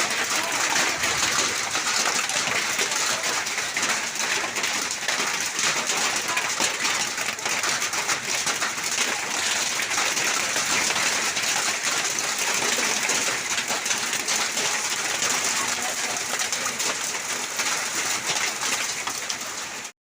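Hailstorm: hail and rain falling in a dense, steady patter of many small impacts, which cuts off suddenly near the end.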